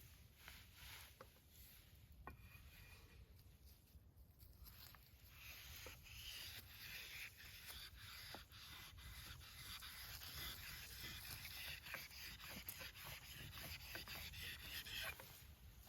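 Nata blade being sharpened on a whetstone: scraping that starts about a third of the way in and stops shortly before the end, with a few faint clicks before it.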